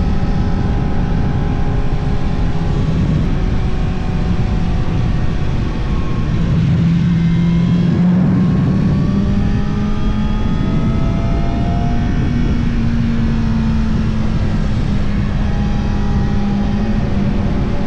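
Yamaha R1 motorcycle's inline-four engine running under way with wind noise, its pitch climbing gradually a few seconds in and stepping up again about two-thirds through.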